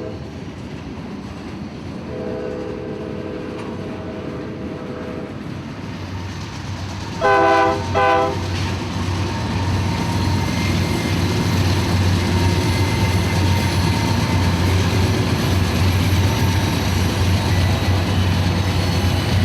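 Simulated diesel freight train in the Run 8 train simulator. Its horn sounds a long blast, then two short louder blasts, as the locomotive closes in. Then a loud steady engine drone and rolling rail noise build and carry on as the train passes.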